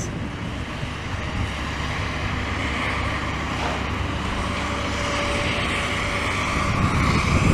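Steady engine rumble from a working vehicle or machine, slowly growing louder toward the end.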